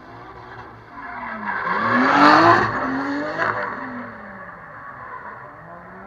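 Drift car engine revving hard as the car passes, its pitch climbing and dropping between shifts of throttle. It is loudest about two seconds in, then fades.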